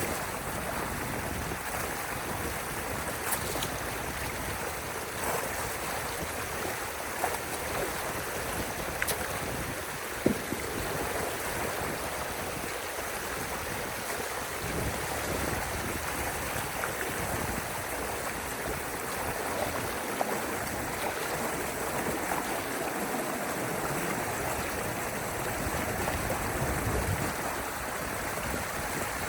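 Steady rush of water running through a drainage channel, with a few sharp knocks along the way.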